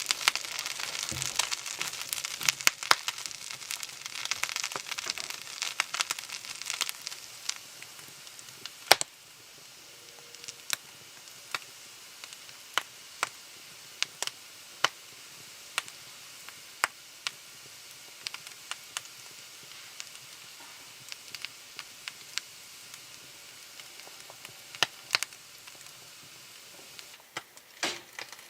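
Fire crackling and popping: dense crackle with a hiss for the first nine seconds or so, a sharp loud pop, then sparser single pops every second or less.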